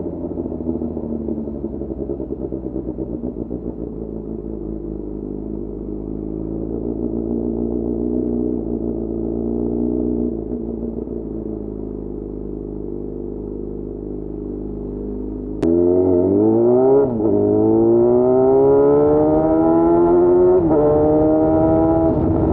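Yamaha FZ6's 600 cc inline-four engine turning over at low, fairly steady revs. About 16 s in, the throttle is opened and it pulls hard with rising revs, shifting up twice.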